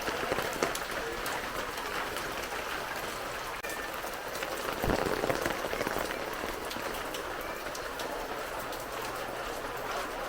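Heavy rain falling steadily, with many drops spattering close by; briefly louder about five seconds in.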